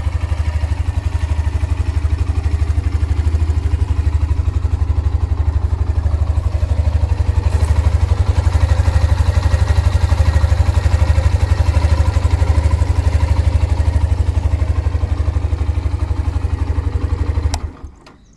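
Hero Xtreme 125R's 125 cc single-cylinder engine idling steadily, its exhaust giving an even low pulse. It is switched off near the end and the sound cuts off.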